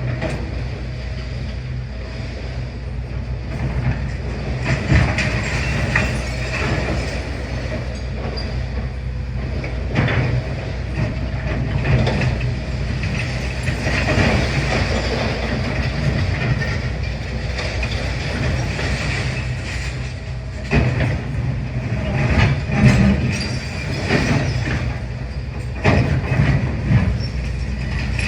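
Demolition excavator's diesel engine running steadily, with repeated clanks, scrapes and crunches of metal and masonry as it works the building. The knocks come irregularly, with a cluster of louder hits about three quarters of the way through.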